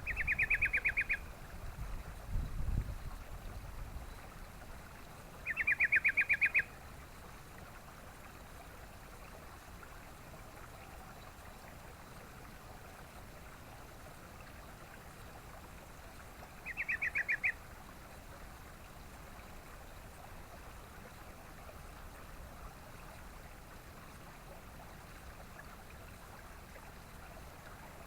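Yellow-vented bulbul giving three short, rapid chattering calls of about a second each: one at the start, one about six seconds in and one about seventeen seconds in. A steady hiss runs underneath, with a low rumble in the first few seconds.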